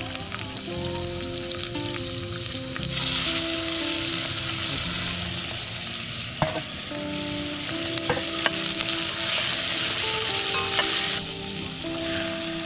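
Ginger, tomatoes and red onions sizzling as they sauté in a stainless steel pot, stirred with a metal spoon that clinks against the pot a few times. The sizzle grows louder twice for a couple of seconds, about three seconds in and again near the end.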